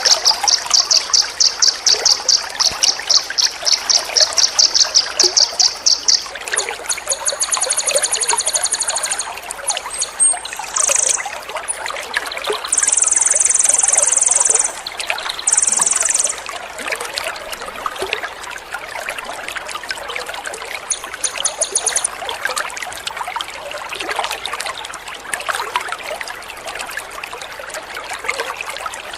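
Water trickling steadily, with high-pitched songbird calls over it: a fast run of repeated notes for the first six seconds, then several shrill bursts of song up to about sixteen seconds in, and one short burst near twenty-two seconds.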